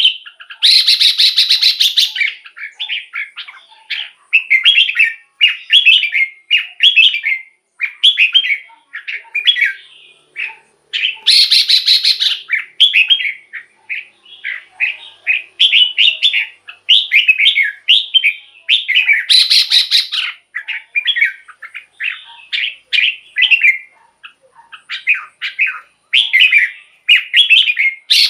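Red-whiskered bulbul singing: short, quick, warbling phrases repeated one after another. About every eight seconds the song breaks into a loud harsh rasping call.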